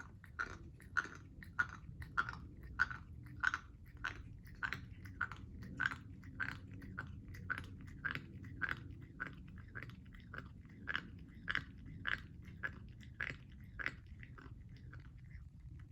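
A pet chewing soft wet food with a weird crunching click on each chew, close to twice a second and very regular. The owner finds it abnormal, since the food is soft and the noise happens only while eating.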